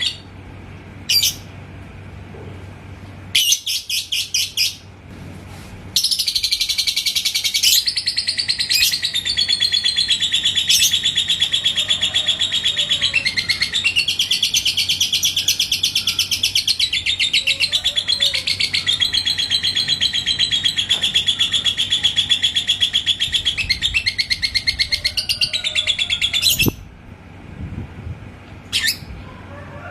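Yellow lovebird 'ngekek': a few short bursts of rapid, high chirping, then one unbroken rapid chattering trill that lasts about twenty seconds before breaking off into short bursts again near the end.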